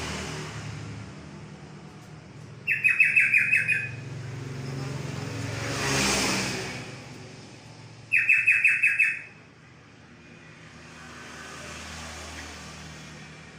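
Yellow-vented bulbul (trucuk) singing two short, bright phrases of rapid chattering notes, about five seconds apart. Between them the noise of a passing vehicle swells and fades.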